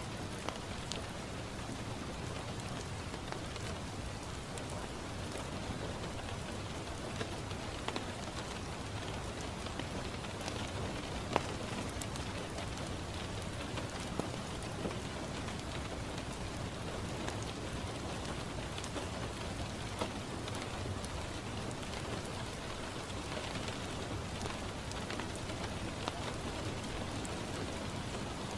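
Steady rain falling on a window pane, with a wood fire crackling and giving occasional sharp pops.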